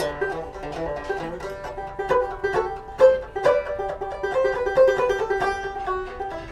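Solo banjo playing a tune, a quick run of plucked notes.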